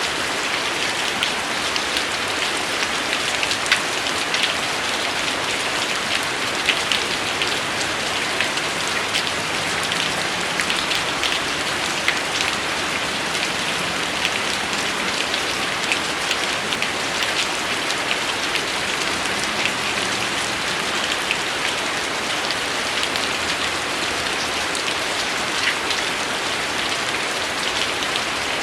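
Steady rain: an even hiss with many individual drops ticking sharply on a surface.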